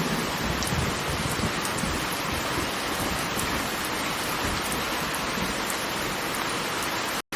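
Steady rushing noise of heavily falling water, with no change in level; it drops out for a split second near the end.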